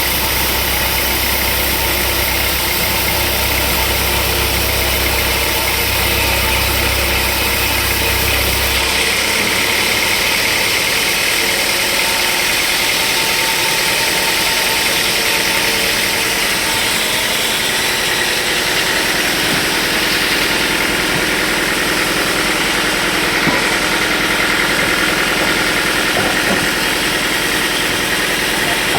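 Sawmill machinery running steadily and loudly. A deep low rumble drops away about nine seconds in, leaving a brighter, hissing machine noise.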